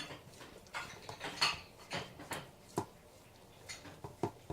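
A husky eating from her food bowl: irregular clicks and clinks of the bowl with wet chewing as she works at a tough, chewy piece of gizzard.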